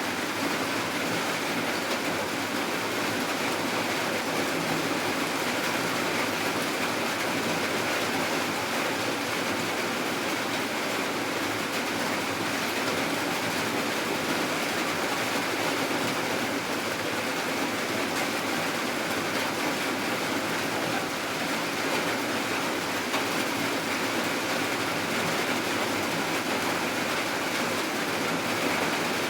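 Steady, unbroken rainfall, a constant even hiss with no distinct drops or thunder.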